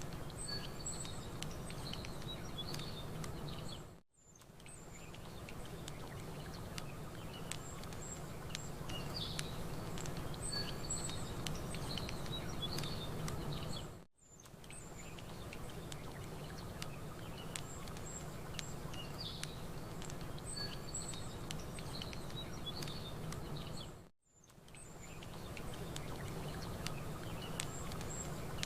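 Campfire crackling over a steady low rush, with small birds chirping. The ambience is a loop about ten seconds long: the sound dips out briefly three times and the same chirps come back after each dip.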